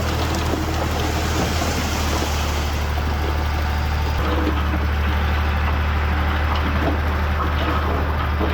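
Heavy diesel earthmoving machine engine running steadily with a deep, constant hum, and light knocks and clanks scattered through it.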